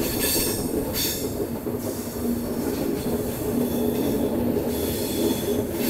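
Passenger train running round a curve, heard from an open coach door: a steady rumble of wheels on rail, with high-pitched wheel squeal that comes and goes.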